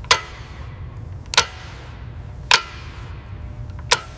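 Four sharp metal clanks about a second and a quarter apart, each ringing briefly, over a steady low hum.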